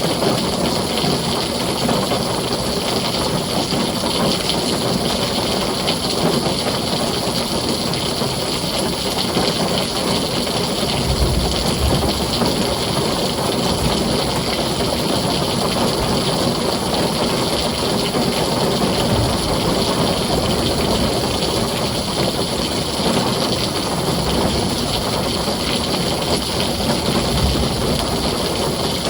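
Heavy rain drumming steadily on a tin roof, with brief low rumbles of thunder about eleven seconds in and again near the end.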